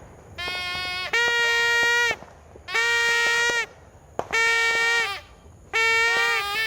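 Toy party horn blown in a series of held, buzzing blasts of about a second each, one roughly every one and a half seconds, each on a steady reedy pitch.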